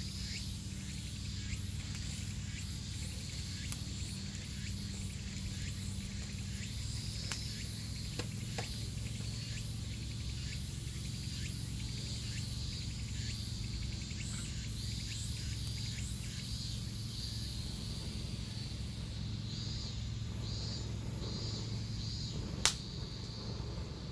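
Insects chirping in a steady series of short repeated calls, about one or two a second, over a low steady hum, with scattered faint clicks and one sharp click near the end.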